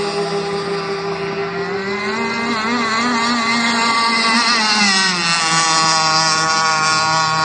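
Radio-controlled model speedboat's motor running. Its pitch rises about two seconds in, wavers as the throttle changes, then drops back and holds steady.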